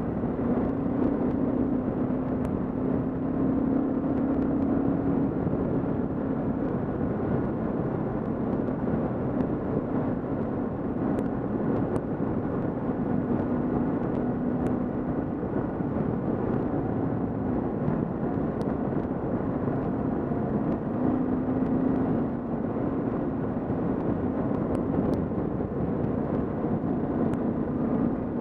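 Kawasaki KLR650's single-cylinder four-stroke engine running at a steady cruise, heard through a helmet-mounted camera over a steady rush of road and wind noise. The engine note swells and eases slightly with the throttle.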